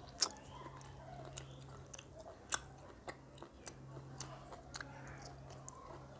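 Close-miked chewing and biting of food, with many sharp wet mouth clicks and smacks; the loudest come about a quarter second in and about two and a half seconds in.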